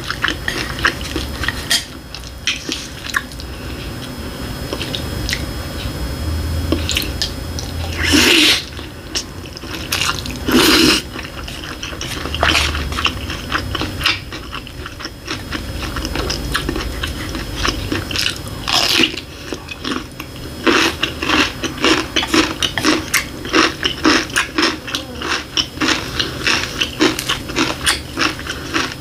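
Close-miked chewing and crunching of food, with a few louder, short noisy sounds in the middle. Near the end the chewing turns into a quick, steady run of crunchy clicks.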